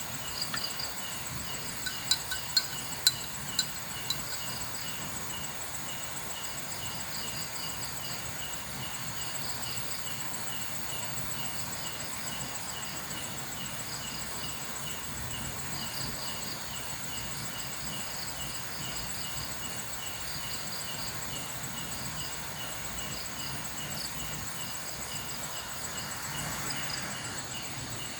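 Night insect chorus of crickets and other insects, several layers of fast repeating chirps with a constant high buzz underneath. A few sharp clicks sound about two to four seconds in.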